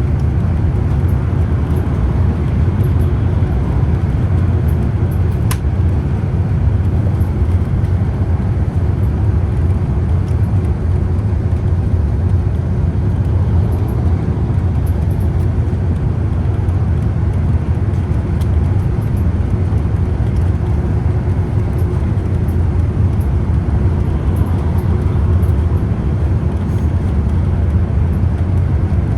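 Scania Citywide city bus's five-cylinder diesel engine running steadily with tyre and road noise as the bus drives, a low even drone throughout; a single short click about five and a half seconds in.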